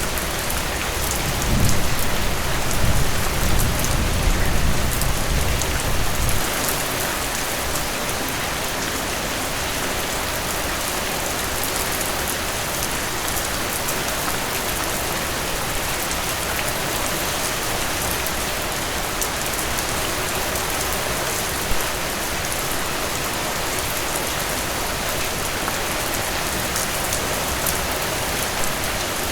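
Heavy rain falling steadily, with a low rumble of thunder from about a second and a half in until about six seconds. About twenty-two seconds in there is a single brief tap.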